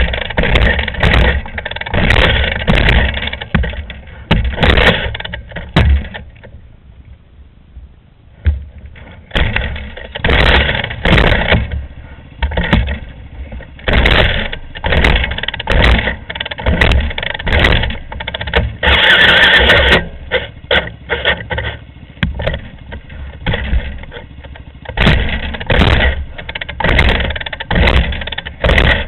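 Off-road vehicle running in uneven, repeated loud surges, with a quieter stretch about a third of the way in.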